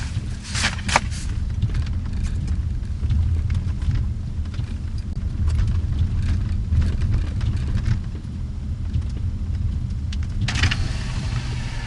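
Car driving slowly, with a steady low rumble and a few sharp clicks about a second in; near the end a broad hiss sets in.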